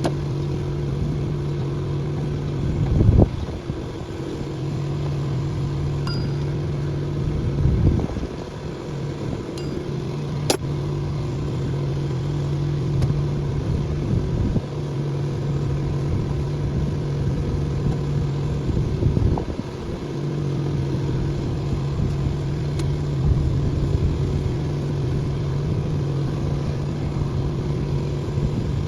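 An engine running steadily with a low hum. Its note dips briefly a few times, and there are louder bumps about 3, 8 and 19 seconds in, plus one sharp click near the middle.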